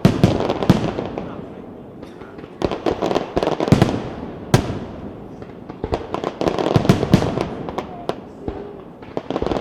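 Aerial fireworks display: volleys of shell bursts with rapid cracking and rumbling, coming in waves about every three seconds, with one single sharp bang between them about four and a half seconds in.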